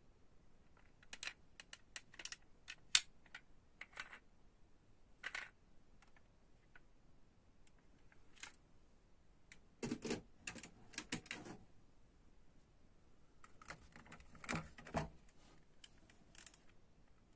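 Light clicks and taps of small diecast metal model cars being handled. The clicks come in three loose clusters with quiet gaps between.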